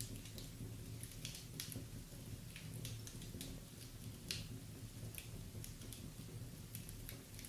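Wood fire in a fireplace crackling: irregular sharp snaps, about one or two a second, with a louder pop about four seconds in.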